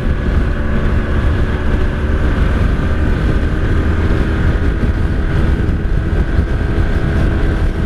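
Heavy wind buffeting on the microphone over a 1983 Honda Sabre VF750S's V4 engine running at a steady speed while the bike is ridden.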